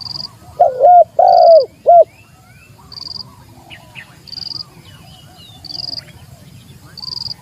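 Spotted dove cooing one loud three-note phrase about half a second in, low hooting notes that swoop up and down. A short high chirp repeats about every second and a half, over faint chirps of other birds.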